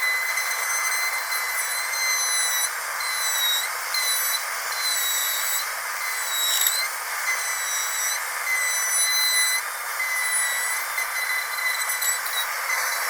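Dentist's drill running with a steady high-pitched whine over a hiss. The pitch dips briefly several times.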